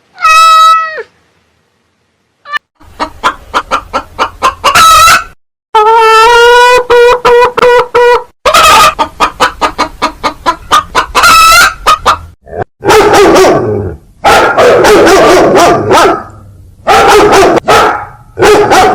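Chickens calling: a rooster crowing and hens clucking in quick runs of short repeated notes, with one long held call in the middle, several separate calls in a row.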